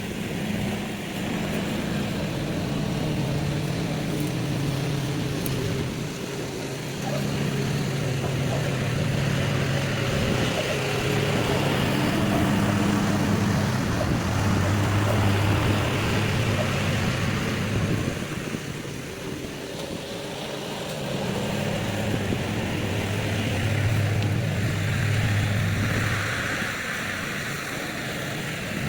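Small petrol engine of a piece of lawn equipment running steadily, its pitch shifting up and down as the load changes while it cuts.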